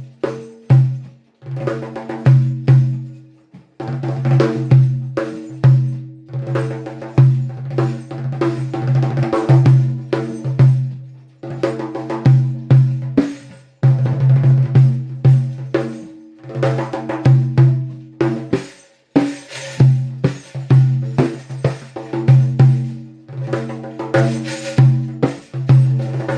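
Percussion playing: a tuned percussion instrument struck by hand in a flowing rhythm, each strike ringing on at one of a few fixed pitches, with short breaks about 4, 14 and 19 seconds in.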